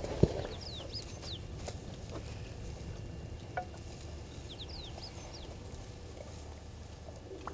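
A bird calling: two runs of three or four short, falling whistled notes, about four seconds apart, over a low steady background. A single sharp knock sounds about a quarter of a second in.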